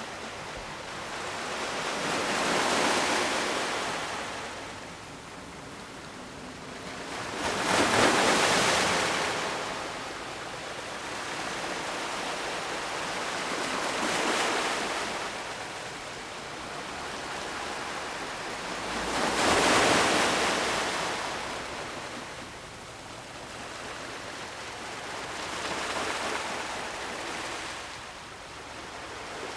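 Ocean surf washing in and out in a slow rhythm: five rushing surges, one about every five to six seconds, with the loudest about a quarter and two-thirds of the way through.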